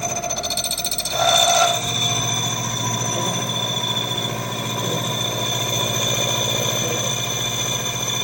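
A machine-shop power tool running steadily with a fast, even pulsing and a steady whine, rising to a louder burst about a second in before settling back.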